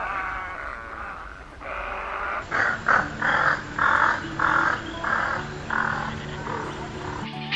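Heron calling: after a rougher, steadier stretch, a run of about seven harsh, croaking calls comes at roughly two a second.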